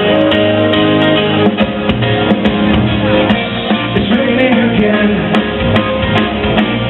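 Live rock band playing a song's instrumental introduction, with guitar and keyboard. About a second and a half in, the playing turns busier and more rhythmic.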